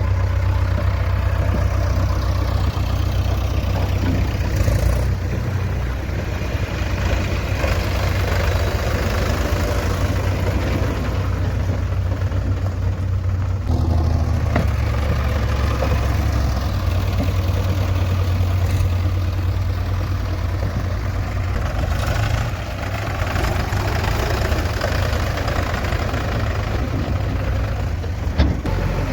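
Diesel engine running steadily with a deep drone, and a single sharp click near the end.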